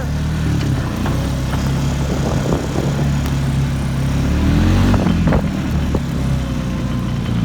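Honda Foreman 500 ATV's single-cylinder engine running steadily, its pitch shifting up and down briefly about two-thirds of the way through.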